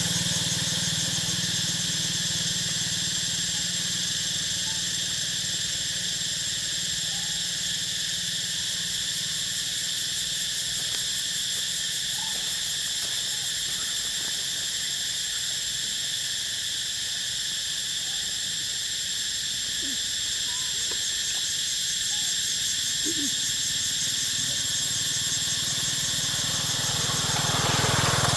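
Steady outdoor ambience: a constant high-pitched drone with a low hum beneath it. A few faint, short, rising squeaks come in the second half.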